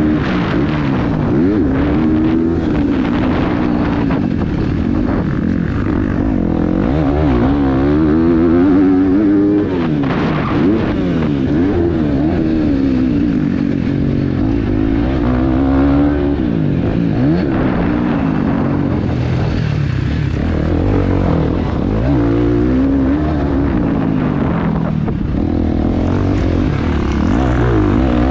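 KTM 350 XC-F dirt bike's single-cylinder four-stroke engine revving up and down over and over while ridden hard on a motocross track, its pitch climbing and dropping every second or two with throttle and gear changes, heard from a helmet camera.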